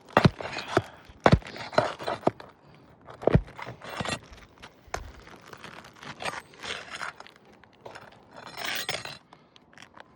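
Brittle 3-tab asphalt roof shingles being pried and lifted: irregular knocks and short scrapes, with a longer scrape near the end.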